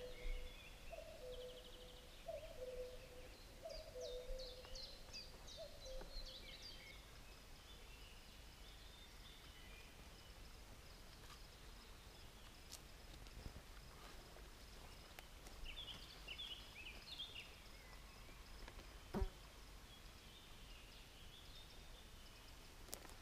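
Faint birdsong: small birds singing in quick high twittering phrases, with a lower run of repeated calls in the first few seconds. A single sharp knock comes about 19 seconds in.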